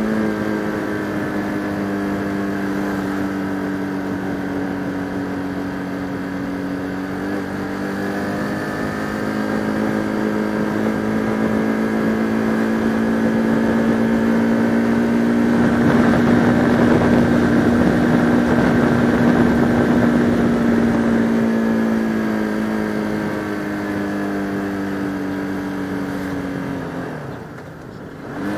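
Bajaj Pulsar RS200 single-cylinder motorcycle engine running steadily while riding, with a swell of rushing noise in the middle. Near the end the engine note drops and the level dips briefly, then picks up again.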